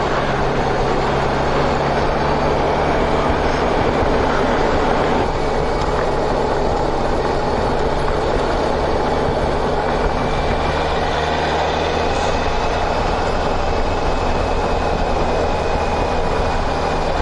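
Motorcycle engine running at a steady cruising speed under constant wind and road rush, with no rise or fall in engine pitch.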